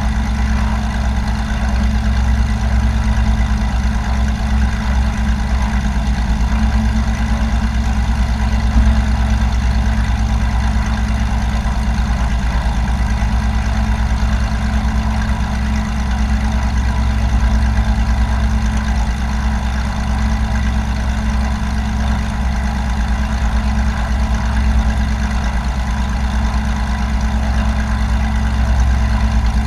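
Light aircraft's piston engine and propeller running steadily at an even power setting.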